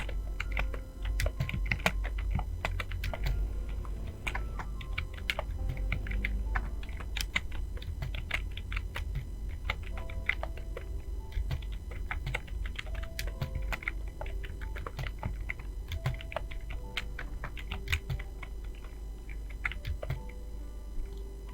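Fast typing on a computer keyboard: quick, irregular runs of key clicks with brief pauses, over a steady low hum.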